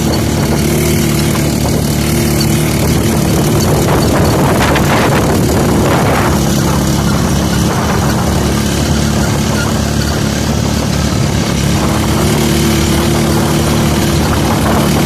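Motorcycle engine running steadily while riding, an even engine hum under a rushing noise.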